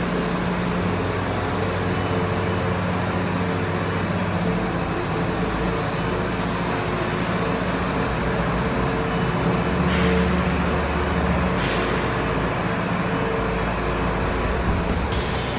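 A heavy truck's engine running steadily with a constant low hum, and two short hisses about ten seconds in and again shortly after.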